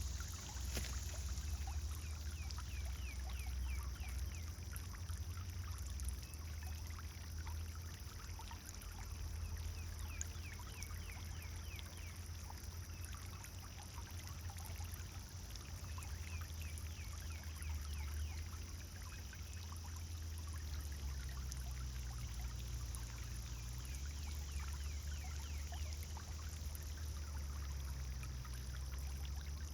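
Pond fountain water pouring and trickling steadily, over a low rumble. Many short high chirps sound through it, thickest in the first half.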